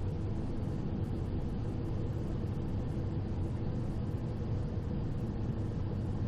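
Steady cockpit noise of a Cessna Citation XL jet on short final: airflow rush and the hum of its twin turbofans with a few steady tones, unbroken throughout.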